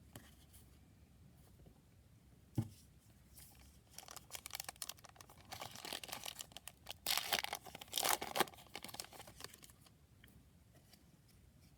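Packaging wrapper of a trading card pack being torn open and crinkled, in a run of crackling tears that is loudest a little past the middle. There is a single knock a few seconds before it.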